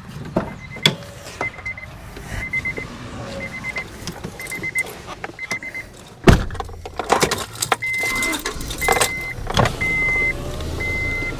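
Honda Odyssey warning chime beeping at a high pitch about once a second, with clicks and rattles. About six seconds in comes a loud thump of a car door shutting, and the chime carries on as longer, cleaner beeps.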